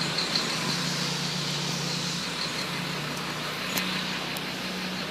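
Steady outdoor background noise with a low, even hum and a couple of faint clicks a little under four seconds in.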